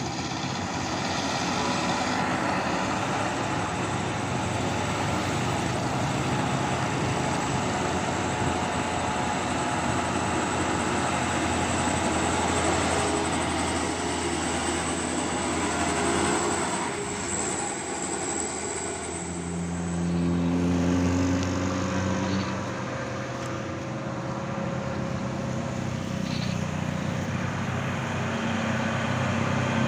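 Heavy diesel truck engines straining up a steep climb under load, with road traffic around them. About two-thirds through a clearer engine note comes in, and another engine grows louder near the end.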